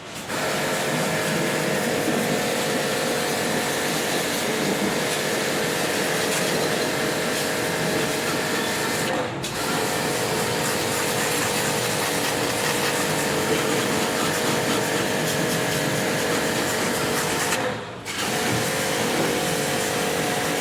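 An electric motor-driven machine running steadily, with a hum of several tones over a loud hiss. It cuts out briefly twice, about nine seconds in and again about eighteen seconds in.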